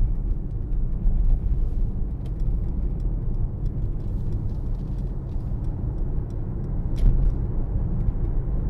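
Steady low rumble of engine and road noise inside the cabin of a moving 2018 Mercedes-AMG GLC63 S with its 4.0-litre twin-turbo V8. A sharper click comes near the end.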